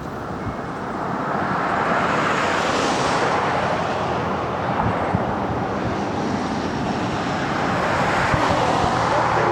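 Southern 4501 steam locomotive giving off a steady hiss of steam as it pulls away. The hiss builds over the first two seconds, then holds.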